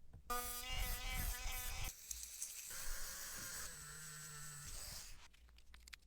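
A small motor buzzing with a pitch that wavers, then a steadier hissing whir that fades out near the end.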